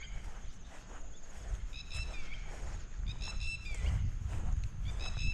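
A bird calling over and over, each call a short held note that drops at the end, about every one and a half seconds, over a steady high-pitched hum and low rumble.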